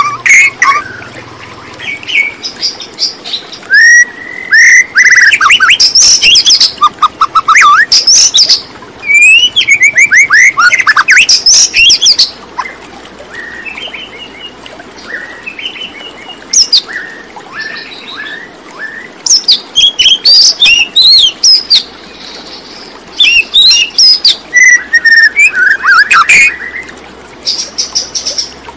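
Birds chirping and calling in loud bursts of quick, sliding notes, with quieter pauses between the bursts.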